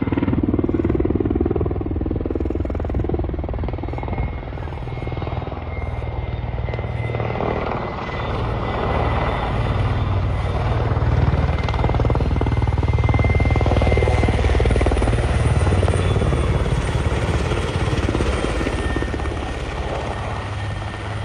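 Helicopter running continuously, a steady low rotor beat with engine noise above it, swelling slightly in loudness partway through.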